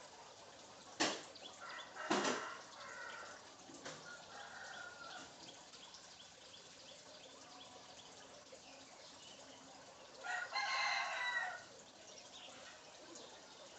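Bird calls: two sharp, short calls in the first few seconds, some softer pitched calls after them, then a crow-like call lasting about a second and a half about ten seconds in.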